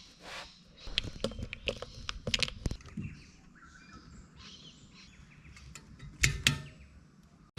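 Outdoor ambience: birds chirping, with scattered sharp clicks and knocks, two louder ones near the end.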